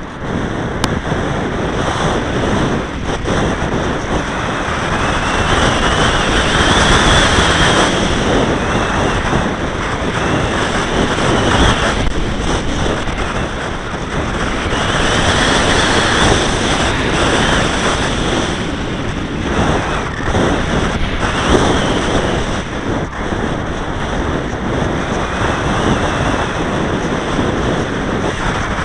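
Wind rushing over the microphone of a camera carried on a flying radio-controlled model aircraft. Mixed with it is the model's high motor whine, which rises and falls in pitch, and the rush swells louder twice.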